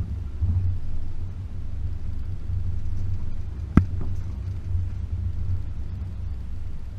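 Range Rover P38's 4.0 V8 driving slowly along a rough green lane, a steady low rumble, with one sharp knock a little under four seconds in.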